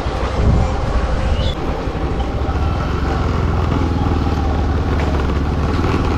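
Motorcycle engine running steadily while riding along a road, a continuous low rumble.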